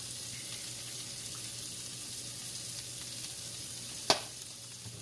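Shredded pork sizzling steadily in a nonstick frying pan as it heats on the stove, with one sharp click about four seconds in.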